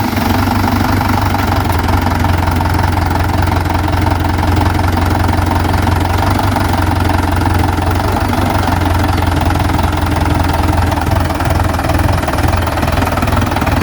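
Mahindra 575 DI tractor's four-cylinder diesel engine running steadily at an even speed.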